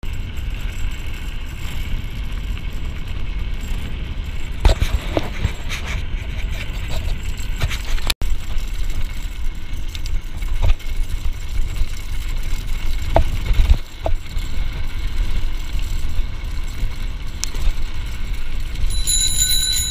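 Steady rumble and wind noise of a mountain bike ride on a dirt trail, picked up by a GoPro Hero 4 the rider is carrying. Scattered sharp knocks and rubbing come from the CamelBak strap and drinking hose touching the camera. A high steady squeal sounds briefly near the end.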